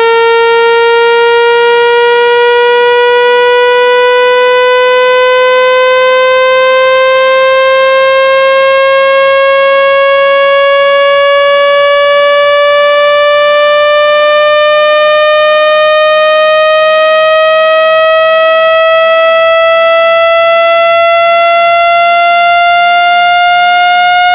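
Loud, buzzy electronic test tone with many overtones, gliding slowly and steadily upward in pitch without a break. It is a speaker-cleaning sound meant to shake water and dust out of a phone's loudspeaker.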